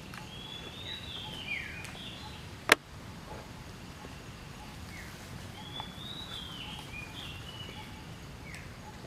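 A bird singing two similar warbling phrases of gliding notes, the second about five seconds after the first, over a steady low background hiss. A single sharp click a little before the middle is the loudest sound.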